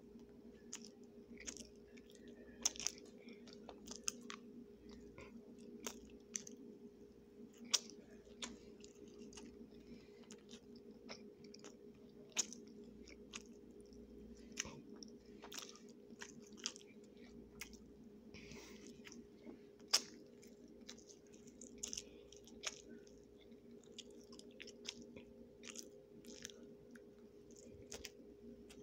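Close-up chewing and biting of a soft bread roll and sliced ham, with irregular sharp mouth clicks and smacks throughout over a steady low hum.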